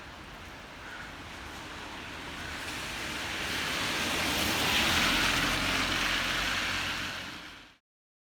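Wet tyre hiss from a vehicle passing on a rain-soaked street, swelling and fading over the steady hiss of heavy rain. The sound cuts off abruptly near the end.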